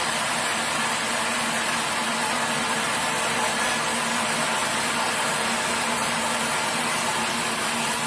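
Sawmill machinery running steadily: a constant motor hum under a loud, even rushing noise, with no starts, stops or changes.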